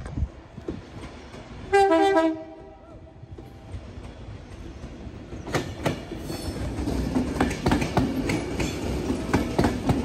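A train horn sounds one short blast, the loudest thing here. About five seconds in, a train's wheels start clattering past in a quick, uneven run of clicks over the rail joints, with a rising rumble.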